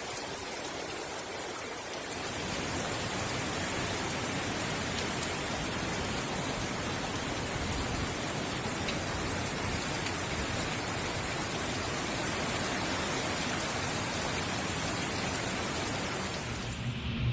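Steady rushing noise of hurricane wind and driving rain, without words or distinct events. It changes abruptly right at the end.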